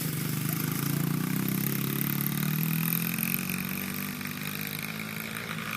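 Small dirt bike engine running, getting louder and rising a little in pitch, then easing off and fading after about three and a half seconds.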